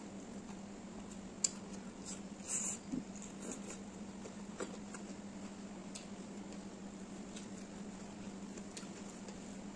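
Close-up eating sounds: chewing and mouth smacks as chicken and rice are eaten by hand, with a few soft clicks and a louder cluster of smacks about two and a half seconds in. A steady low hum sits underneath.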